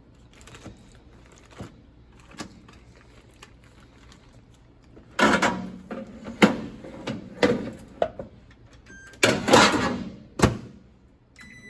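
A cooking appliance being loaded and set. It makes two loud rattling scrapes with sharp clicks between them, like a door or basket opening and shutting, and then a short electronic beep near the end.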